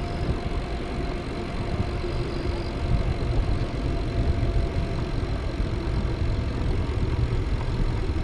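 Steady, fluttering low rumble of wind buffeting the microphone while riding a bicycle on a paved road.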